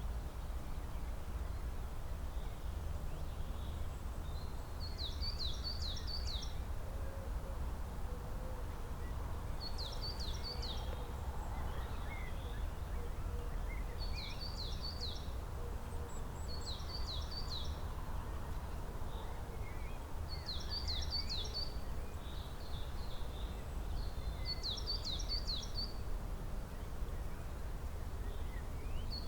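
A songbird repeating a short song phrase of four or five quick, descending high notes about every four seconds, seven phrases in all, with faint calls of other birds in between. A steady low rumble runs underneath.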